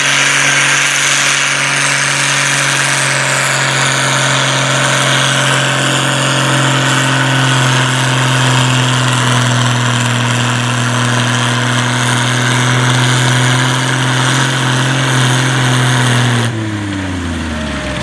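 Farm pulling tractor's engine running hard at a steady high speed under load, its pitch sagging slightly midway. About a second and a half before the end it drops off sharply and winds down in pitch as the throttle comes off.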